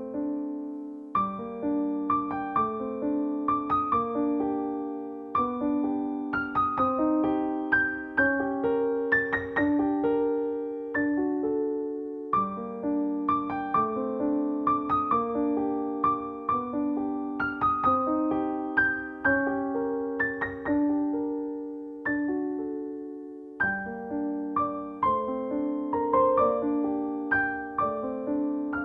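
Solo piano music: slow melodic phrases of struck, ringing notes and chords, with short pauses between phrases.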